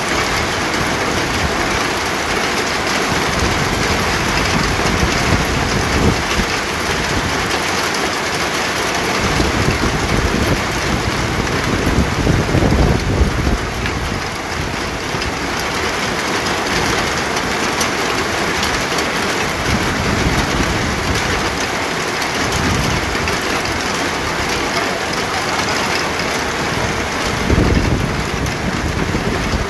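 Steady heavy rain falling, with a low rumble swelling about twelve seconds in and a shorter one near the end.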